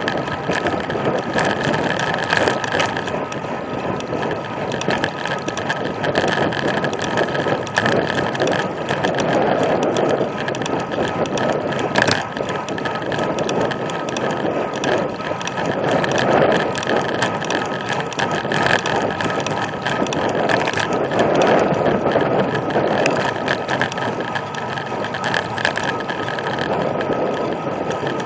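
Road bicycle riding at speed, heard from on the bike: steady wind and road noise with many small clicks and rattles from the bike's drivetrain and freehub ratchet.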